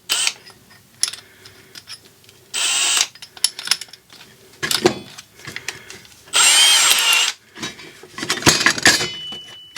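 Power drill with a stepped-point drill bit, run in two short bursts of motor whine about three seconds apart while starting a hole in aluminum. Light clicks and knocks come between the bursts.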